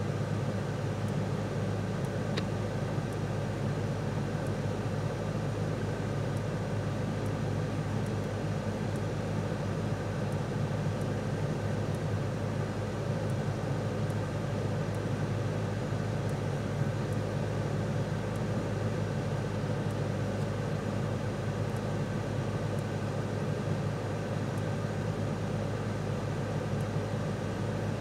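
Steady, even hum of a 2023 Mercedes C 300's 2.0-litre turbocharged four-cylinder idling, heard from inside the cabin.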